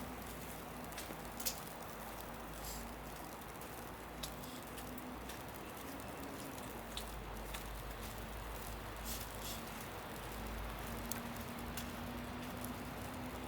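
Footsteps in fresh snow: a sharp crunch about every second or two over a steady hiss and a faint low hum.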